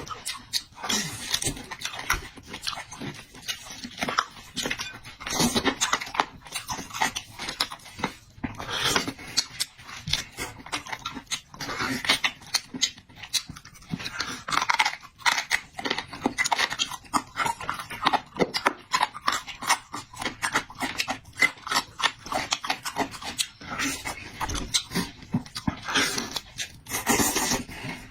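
Close-miked chewing: a person eating with many wet mouth clicks and smacks a second, without pause.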